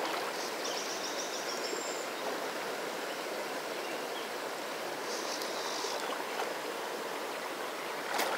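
Fast river water rushing steadily around a wading angler, with a couple of faint high chirping sounds over it and a short click near the end.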